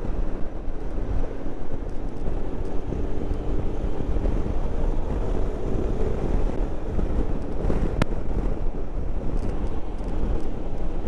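Wind buffeting a helmet-mounted microphone on a moving motorcycle, a steady rushing noise with the engine's drone underneath. A single sharp click about eight seconds in.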